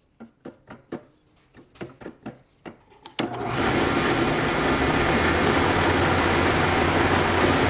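A few light clicks and knocks of parts being handled, then about three seconds in an electric power tool starts up and runs steadily with a constant hum and a loud hiss.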